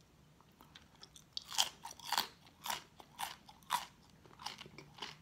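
Close-up crunching of raw vegetable being chewed, about two crisp crunches a second after a brief quiet start.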